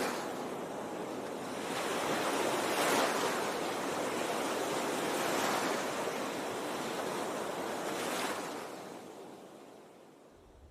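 A steady rushing noise that swells and eases about every two and a half seconds, like surf washing in, then fades away near the end.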